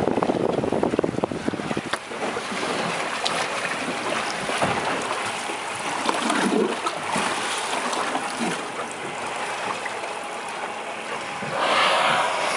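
Open-sea water splashing and lapping around a small boat, with wind buffeting the microphone for the first couple of seconds; near the end a louder rushing hiss sets in.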